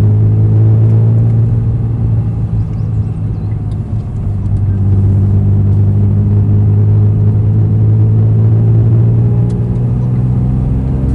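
Honda NSX's V6 engine running at a steady cruise through an all-titanium aftermarket exhaust, easing off briefly about four seconds in and then pulling steadily again.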